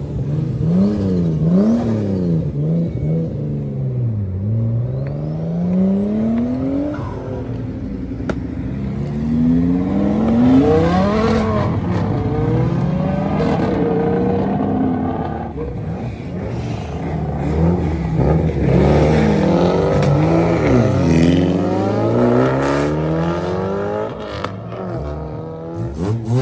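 Car engines revving, their pitch climbing and dropping again and again, with more than one engine often sounding at once.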